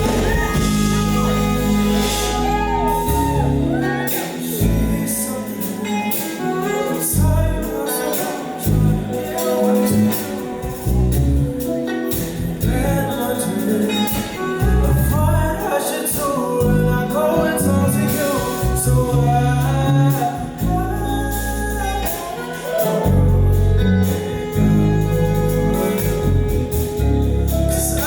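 Live R&B band playing a song, with a lead voice singing over bass notes and drums.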